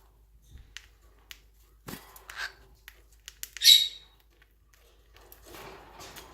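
Pet birds pecking at food from a hand: scattered light clicks and taps, with one short harsh squawk about three and a half seconds in, the loudest sound.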